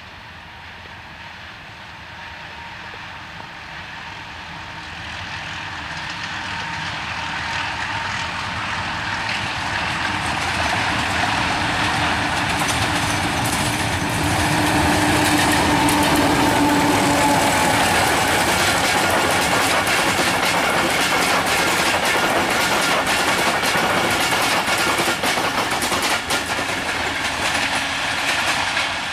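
Diesel locomotive HBU-20-8087 hauling a passenger train past, growing steadily louder as it approaches. Its engine note peaks about halfway through, then the wheels keep up a rapid clickety-clack over the rail joints as the coaches go by.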